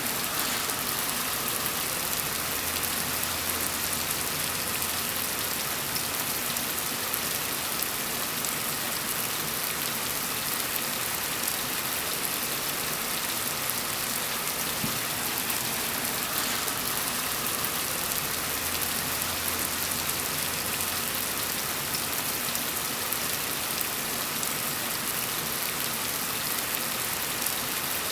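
Steady rain falling in a dense, even hiss of many drops. A faint low rumble comes and goes twice underneath.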